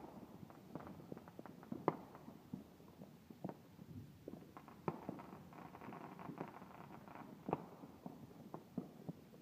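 Fireworks popping and crackling at a distance: irregular sharp pops and crackles, a few louder bangs among them, with a faint steady whine in the middle.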